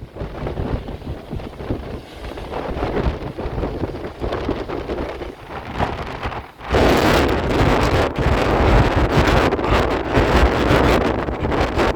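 Storm wind blowing against the microphone in uneven gusts, heaviest in the low end. About seven seconds in a stronger gust hits and the wind noise turns louder and fuller.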